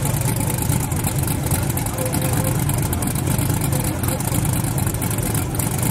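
A twin-turbo Mustang drag car's engine idling steadily, a low, even rumble with no revving.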